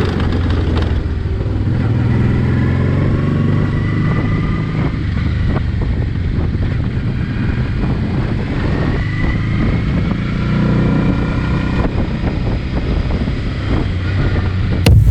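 Honda NT650V Deauville's V-twin engine running while the bike is ridden, its pitch rising and falling twice as it accelerates and eases off.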